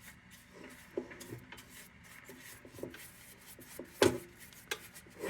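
Faint rubbing and light clicking as a rag is worked over the tin of a Dietz No. 2 Blizzard lantern, with one sharp click about four seconds in.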